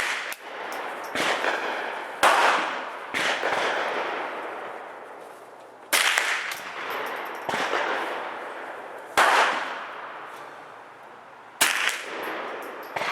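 Sig 522 semi-automatic .22 LR rifle fired at a slow, irregular pace, about seven single shots, each followed by a long echoing tail.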